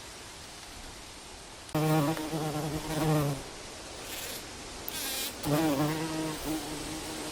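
A flying insect buzzing close by, twice: the first pass lasts under two seconds, and the second starts about two seconds later, its pitch wavering as it moves.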